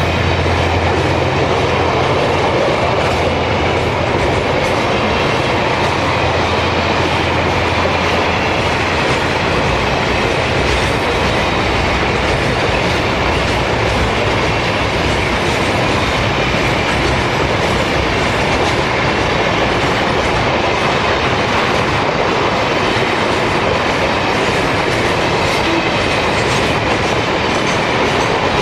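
Freight train wagons rolling past, a steady rumble and rattle of steel wheels on rail. A low hum underneath fades out about nine seconds in.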